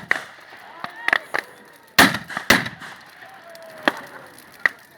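Large wood bonfire crackling, with scattered sharp pops and cracks of burning wood. The two loudest cracks come about two seconds in and half a second apart.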